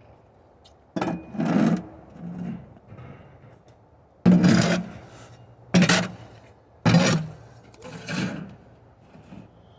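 A metal shovel scraping ash and embers, about six harsh strokes a second or so apart with pauses between, several of them loud.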